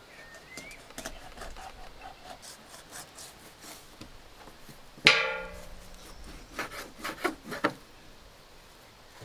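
Food-preparation handling sounds: light scraping and clicking, then one loud strike about five seconds in that rings for about half a second, followed by a quick run of sharp knocks.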